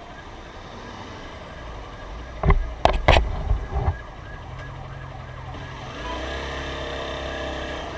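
Ambulance siren sounding through traffic noise, heard from a motorcycle rider's helmet microphone, with a few loud thumps about two and a half to four seconds in.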